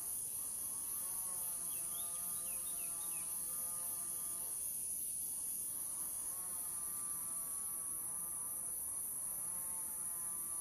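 Steady high-pitched chorus of insects. Under it runs a lower wavering hum that drops out for a couple of seconds in the middle. A few short chirps come about two seconds in.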